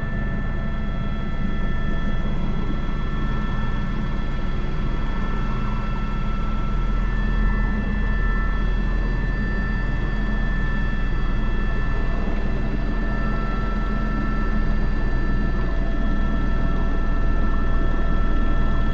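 Airbus H125 single-engine helicopter flying with an external sling load: steady rotor drone with a constant turbine and gearbox whine over it.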